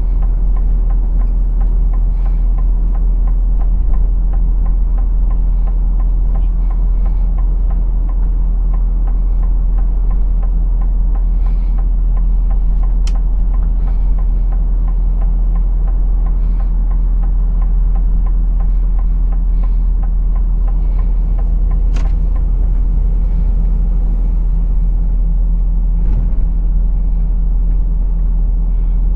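A heavy lorry's diesel engine and road noise heard from inside the cab: a steady low drone. Two sharp clicks come through, about 13 and 22 seconds in.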